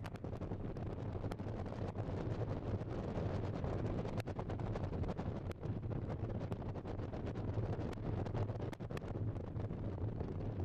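Wind buffeting the camcorder's microphone: a steady low rumble with faint crackles throughout.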